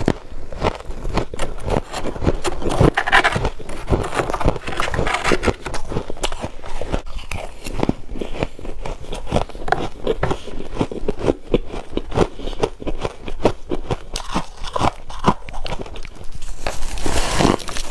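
Someone biting and chewing freezer frost: a dense run of small crunches and crackles, with a louder burst of crunching near the end.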